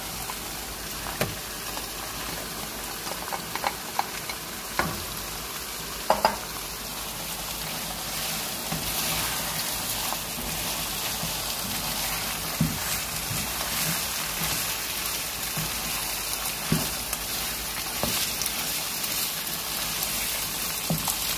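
Beef mince and sliced bitter gourd frying in oil in a non-stick wok, sizzling steadily, with a spatula knocking and scraping against the pan as the gourd is stirred in. The sizzle grows louder about a third of the way through.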